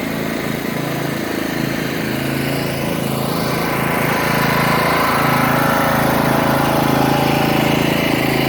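Riding lawn mower engine running steadily, growing a little louder about four seconds in.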